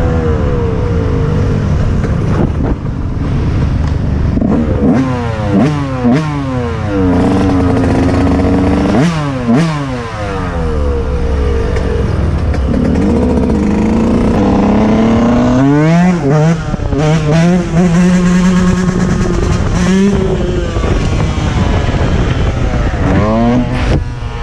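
Dirt bike engine revving and changing gears, its pitch climbing and dropping again and again, with a few stretches held at steady throttle.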